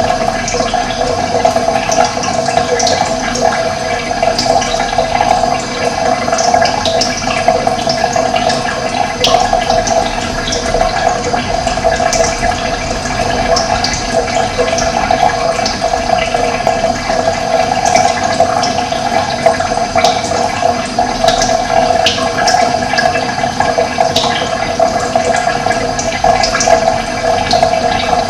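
Running water rushing steadily, with birds chirping briefly and often above it.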